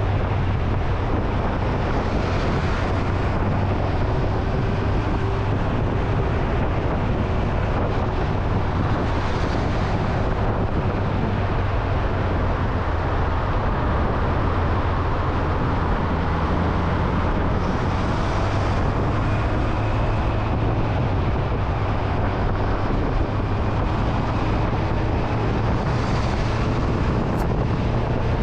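Motorcycle engine running steadily while riding at cruising speed, with wind rushing over the microphone and road noise.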